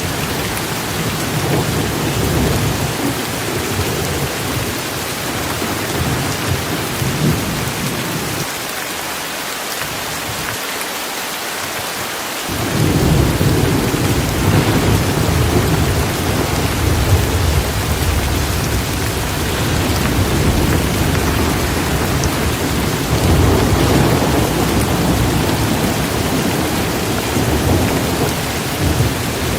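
Heavy rain falling steadily, with thunder rumbling low underneath. The rumble dies away about nine seconds in and rolls back in louder some four seconds later.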